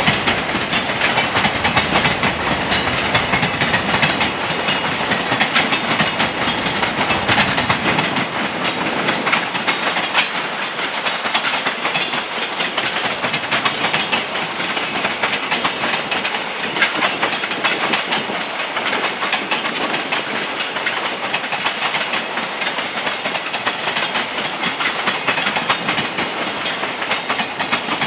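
A freight train's wagons rolling past, wheels clattering over the rail joints in a rapid, continuous clatter. A low rumble underneath fades out about eight seconds in, leaving the clatter of the wheels.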